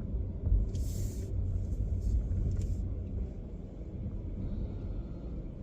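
Low, steady rumble of a car's engine and tyres heard from inside the cabin as it drives slowly, with a short hiss about a second in.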